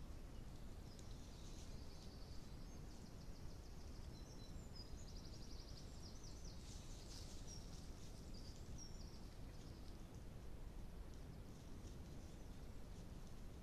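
Faint songbirds singing, with chirps and a quick trill about four to five seconds in, over a steady low background hiss.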